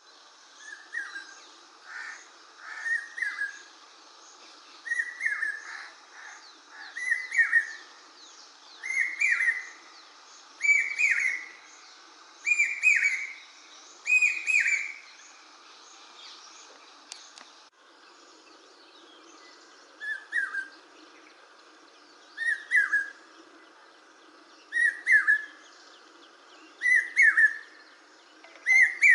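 Common hawk-cuckoo (brainfever bird) calling: shrill whistled phrases repeated about every two seconds, each series climbing in pitch and getting louder. The calls break off about halfway through, then start again lower and build up once more.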